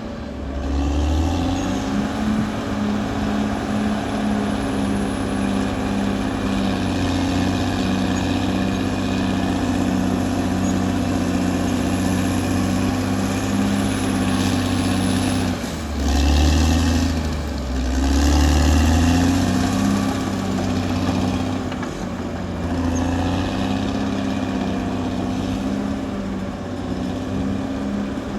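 Caterpillar D6R XL bulldozer's diesel engine running steadily under working load. A little past halfway the engine note drops and then climbs back up over a few seconds.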